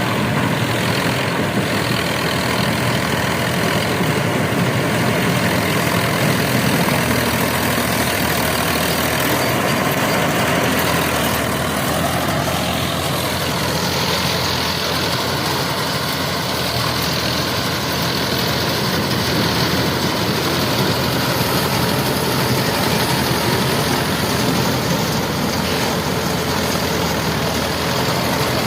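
ACI mini combine harvester running: a loud, steady engine drone with machinery noise, which shifts slightly in tone about halfway through.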